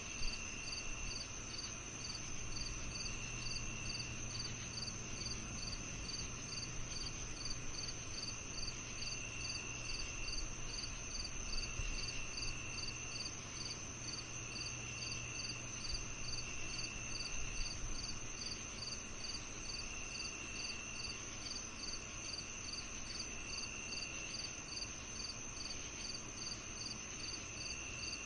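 Summer evening insect chorus: crickets chirping, one repeating a short chirp about twice a second over a steady high-pitched drone, with a lower trill of about a second coming back every few seconds.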